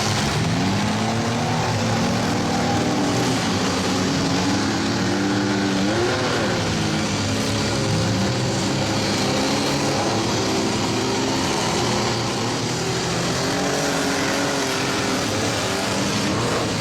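Several demolition-derby minivans, small pickups and SUVs with their engines revving, the pitches of the different engines rising and falling over one another as the cars push and back out.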